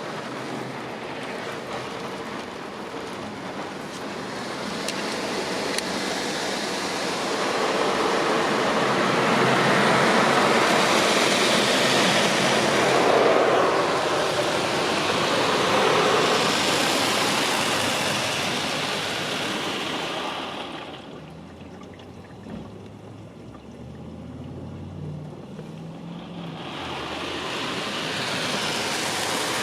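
Ryko Softgloss MAXX in-bay car wash spraying water onto the car, heard from inside: a rushing hiss that swells, falls away about two-thirds through with a faint low hum underneath, then builds again near the end.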